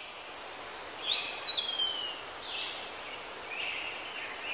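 Birds calling over a steady outdoor hiss. About a second in comes the loudest call, a whistle that rises and then slides slowly down, with shorter chirps after it.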